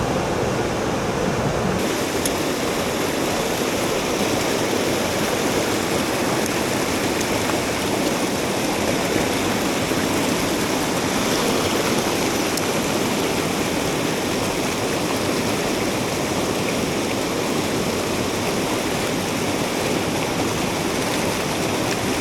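Mountain stream rushing over rocks: a steady, even wash of flowing water that grows brighter and hissier about two seconds in.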